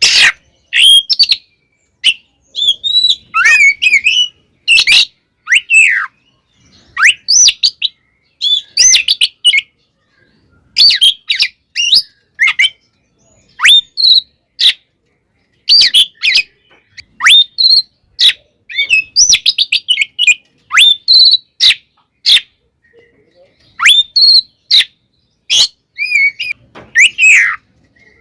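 Oriental magpie-robin (kacer) singing a loud, varied song in fighting mode. It runs in short bursts of clear rising and falling whistles and sharp notes, with brief pauses between phrases.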